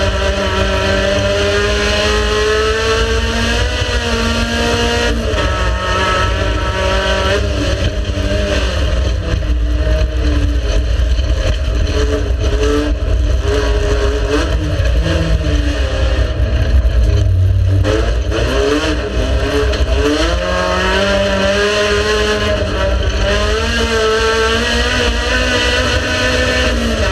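Race car engine running hard, its pitch climbing and then dropping back repeatedly as it revs up through the gears and backs off. Its pitch dips and recovers about two-thirds of the way in.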